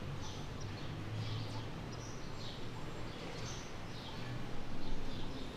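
Small birds chirping: a string of short, high, falling chirps every half second or so, over a steady low background rumble.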